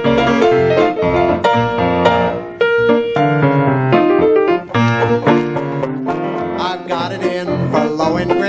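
Piano playing a lively ragtime instrumental break, with many quick notes; the band grows busier in the second half.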